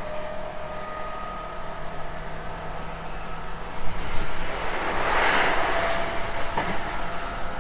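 Running noise of a refurbished JR West 221 series electric train: a steady rumble with a few held tones. A rushing swell builds and peaks about five seconds in, and there are a couple of short clicks.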